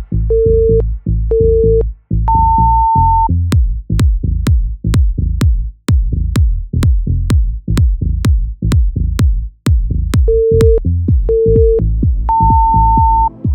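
Electronic dance music with a heavy bass beat, overlaid by an interval timer's signal: two short low beeps and one longer, higher beep near the start, sharp ticks a little over twice a second through the middle, then the same beep-beep-beeep pattern near the end, marking the change between Tabata intervals.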